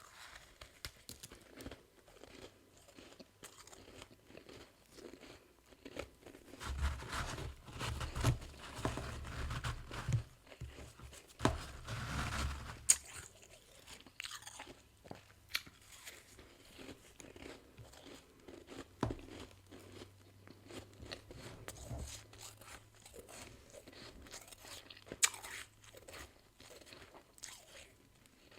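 Close-up chewing of freezer frost: many small, sharp crunches. The crunching is louder and denser for several seconds about a quarter of the way in.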